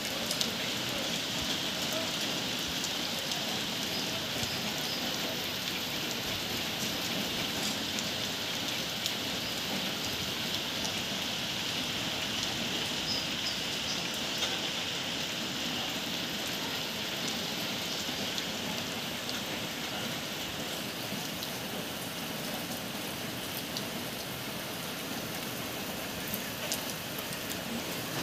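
Steady rain falling on roofs and ground: an even hiss with scattered ticks of single drops.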